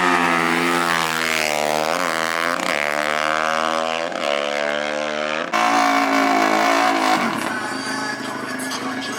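Off-road vehicle engine revving, its pitch rising and falling several times. About five and a half seconds in the sound changes abruptly, and from about seven seconds it turns rougher and noisier.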